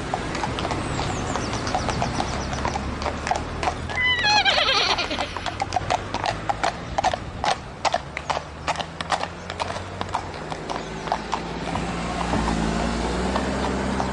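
A horse whinnies once about four seconds in, a falling call, then its hooves strike the ground in a long, regular run of hoofbeats.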